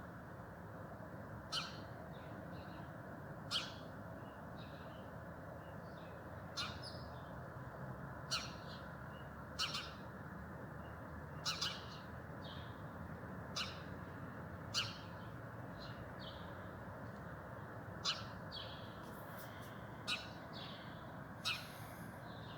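Birds calling: about a dozen short, sharp calls, one every second or two, over a steady low background noise.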